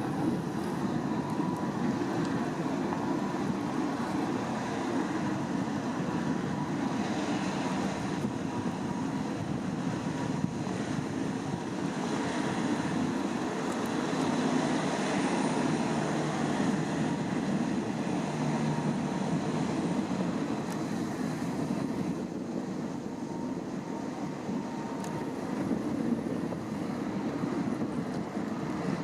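Steady drone of a passing boat's engine with a few held tones, over wind and water noise.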